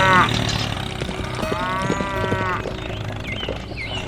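Cow mooing: two drawn-out calls, one ending just after the start and one in the middle, over a steady low hum, with a few short high chirps near the end.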